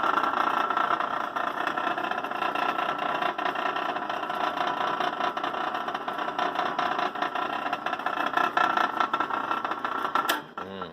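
Logan 200 belt-driven metal lathe running forward at its slowest speed: a steady whir with a light rattle from the motor, belt and spindle. It shuts off near the end and runs down quickly.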